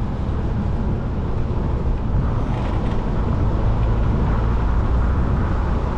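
Steady road and engine noise of a car being driven, a low even rumble with tyre hiss.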